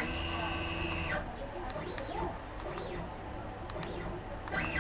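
Stepper motors of a DIY CNC router whining with a steady pitch for about a second, then stopping abruptly, as the gantry moves while the machine is being homed and zeroed. Faint short chirps follow.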